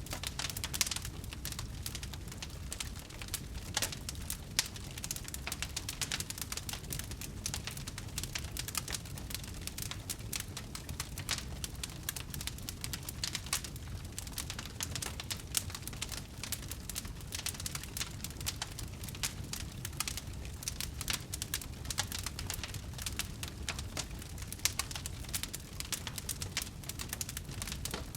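Wood fire burning with dense, continuous crackling and small pops over a low rumble of flame.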